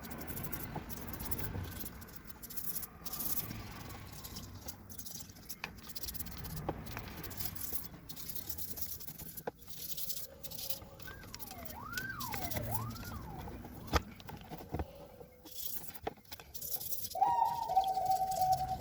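Irregular scraping and scrubbing with scattered clicks, consistent with rust being cleaned off a metal blade. A few rising and falling whistle-like squeaks come midway, and a steady, louder whistle-like tone starts near the end.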